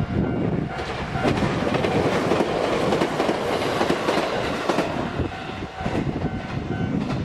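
Nagano Electric Railway electric train running close by with a loud, steady rumble, its wheels clacking over rail joints a few times.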